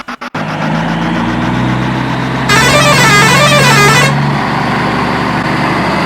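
Truck engine running steadily, with a truck horn sounding about two and a half seconds in for about a second and a half, its pitch warbling up and down.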